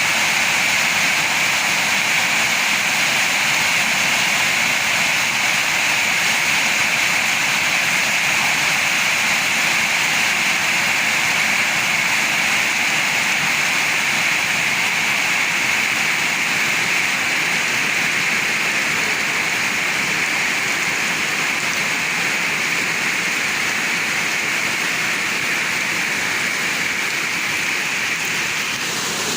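Rain pouring down steadily in a windy storm, a dense unbroken hiss that eases slightly near the end.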